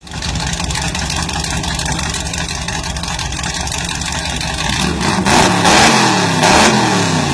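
Loud car engine idling steadily, then from about five seconds in revved repeatedly, its pitch rising and falling about once a second and growing louder.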